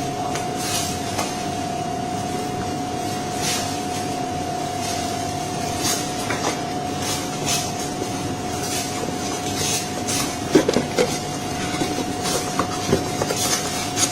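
Flatbed digital cutting machine running: a steady whine over a mechanical hum, with a hiss rising and falling about once a second. Sharp clicks and knocks come in the second half.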